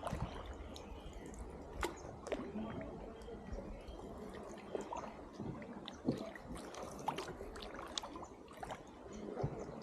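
Water splashing, trickling and dripping around a small boat being moved along on calm water, with scattered light splashes and knocks.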